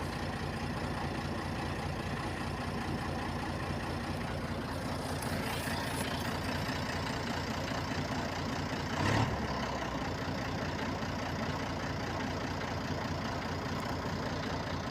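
A truck engine running steadily, with one brief louder thump about nine seconds in.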